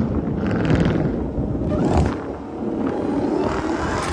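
Jeep Grand Cherokee Trackhawk's supercharged 6.2-litre Hemi V8 under hard throttle, heard from inside the cabin: a loud, dense engine and exhaust rumble with the supercharger's whine, and a brief thump about two seconds in.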